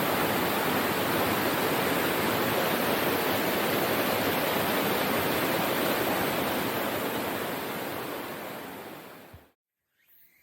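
Waterfall pouring: a steady, dense rush of falling water that fades out over the last few seconds and cuts off just before the end.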